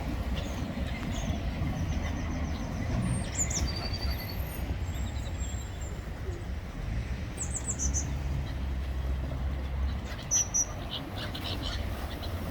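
Short, high bird chirps in quick runs a few times, over a steady low rumble.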